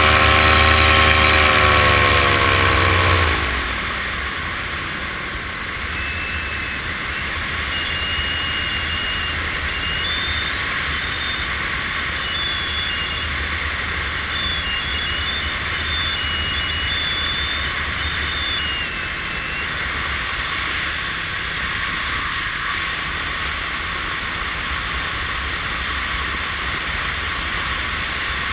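Multirotor drone's motors and propellers whirring. A pitched hum slides down in the first three seconds, then a steady noisy whir carries on.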